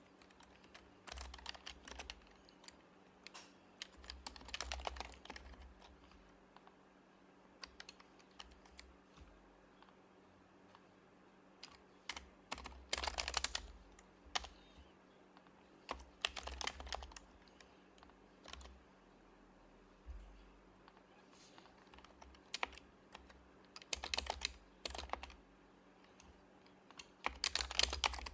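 Typing on an HHKB Professional HYBRID Type-S keyboard with its quiet Topre switches, in bursts of rapid keystrokes separated by pauses of a few seconds.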